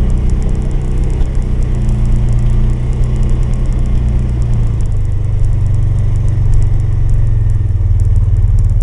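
Polaris 570's single-cylinder engine running steadily, a low rumble with a rapid, even firing beat.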